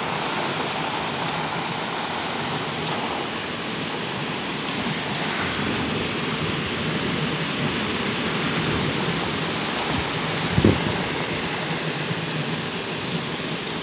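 Heavy thunderstorm rain pouring down with gusting wind, a steady hiss. A single brief low thump sounds about ten and a half seconds in.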